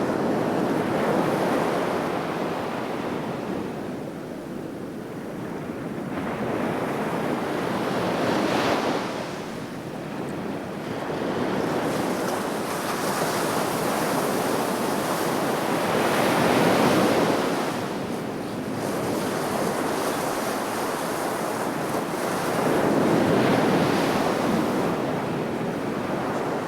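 Sea waves breaking on the shore: a continuous wash of surf that swells and falls back, with three waves breaking loudest about every seven or eight seconds.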